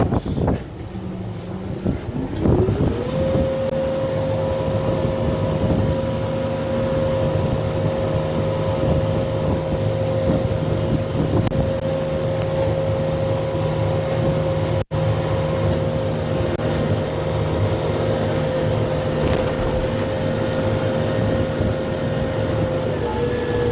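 Kubota M6-141 tractor's diesel engine revving up about two and a half seconds in and held at high revs with a steady whine while the grapple works, easing off slightly near the end.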